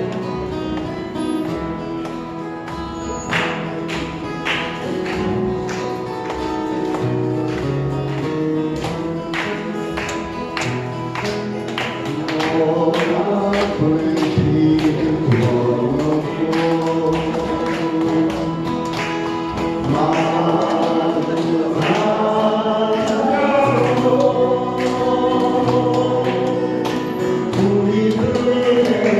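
Three singers singing a Korean song together over instrumental accompaniment with a steady beat. The voices grow louder about twelve seconds in.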